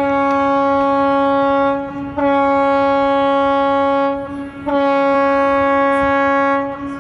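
Ship's horn sounding three long blasts of about two seconds each, with short gaps between them: one steady, bright, loud note.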